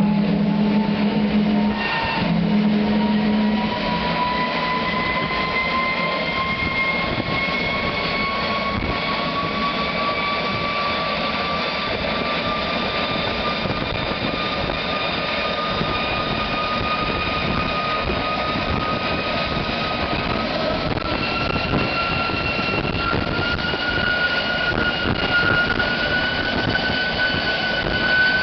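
GE J33 centrifugal-flow turbojet running up, its whine rising slowly and steadily in pitch over a loud rushing noise. A low steady hum is heard in the first few seconds and then stops.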